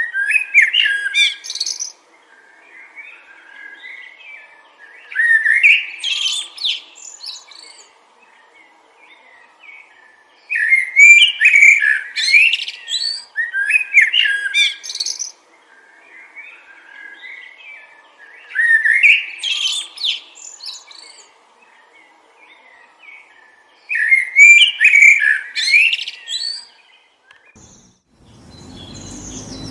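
A songbird singing loud, fast, chirping phrases of about two seconds each, repeated every five seconds or so, with softer calls in between. About two seconds before the end the song stops and a steady rush of wind noise takes over.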